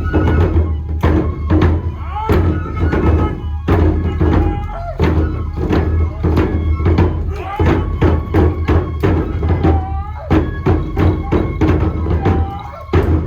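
Kenbai dance music: a deep drum beaten steadily, with sharp strikes about two to three times a second over a pitched, wavering melody line.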